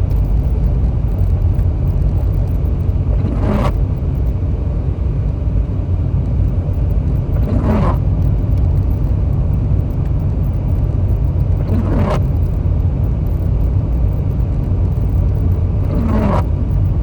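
Steady low rumble of a car cabin on the road, with a brief windshield-wiper swish about every four seconds, four sweeps in all.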